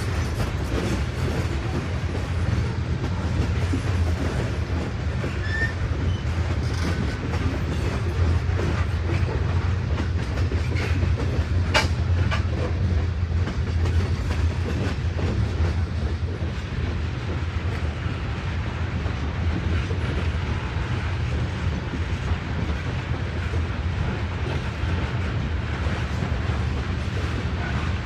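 Railroad cars rolling past with a steady low rumble and the clickety-clack of wheels over the rail joints, with one sharp clank about twelve seconds in.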